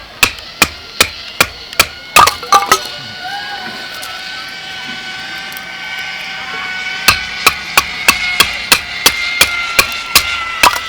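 Firewood being chopped: sharp wooden knocks at about two to three a second, stopping for about four seconds in the middle and then starting again.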